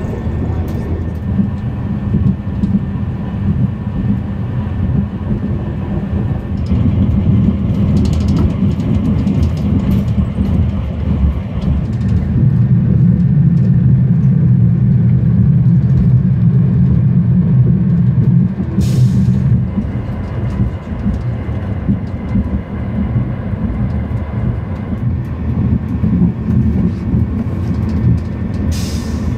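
Cabin noise of a moving Renfe Alvia passenger train: a steady low rumble of wheels on the track, louder for several seconds around the middle.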